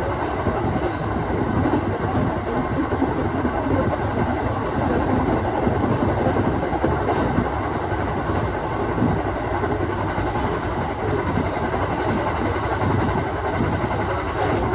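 Aoimori Railway 701-series electric train running, a steady rumble of wheels on rail and running gear heard from inside the car.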